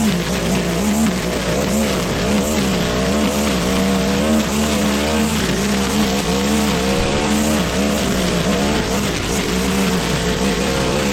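Petrol lawn mower engine running steadily under load while cutting thick, wet grass, its pitch wavering slightly up and down.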